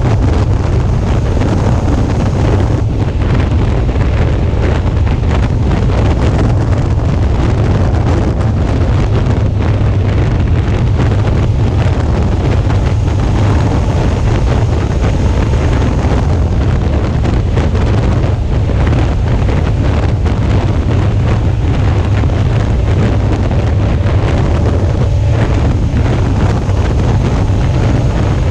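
Heavy, steady wind buffeting on a GoPro's microphone while riding a Suzuki V-Strom 650 motorcycle at road speed, a deep rumble that buries the bike's V-twin engine and road noise beneath it.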